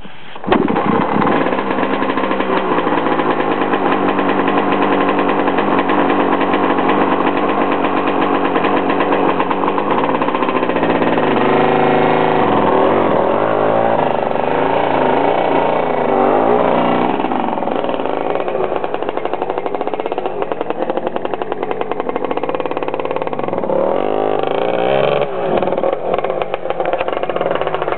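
Husqvarna 250 dirt bike engine running loud, its revs rising and falling several times as the throttle is worked.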